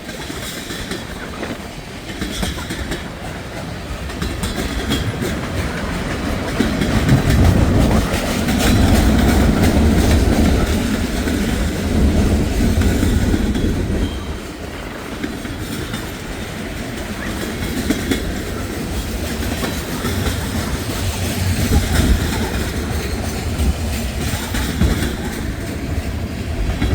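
Long freight train rolling past, its wagon wheels clicking over rail joints, with a steady rumble that swells for several seconds in the middle. Strong gusting wind on the microphone.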